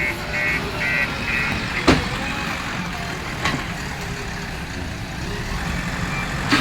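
Diesel engine of a JCB 3DX backhoe loader running steadily, with a vehicle's reversing alarm beeping about two or three times a second that stops about a second and a half in. Two sharp knocks, about two seconds and three and a half seconds in.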